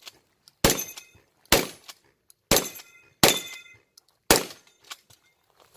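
Five shotgun shots, roughly one a second, each followed by a brief high metallic ringing, as of steel targets being struck.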